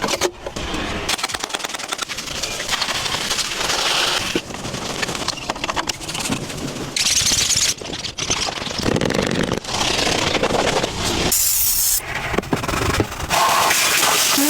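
Vacuum cleaner sucking up dirt and grit, with debris crackling and rattling up the nozzle. It comes in a string of short clips that cut in and out abruptly.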